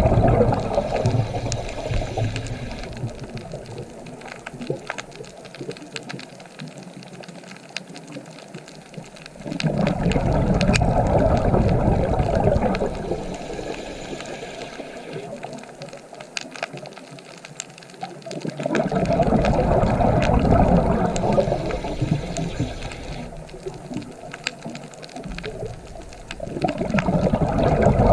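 Underwater water noise: rumbling bubbling surges a few seconds long that come back about every nine seconds, with quieter stretches between them full of faint scattered crackling clicks.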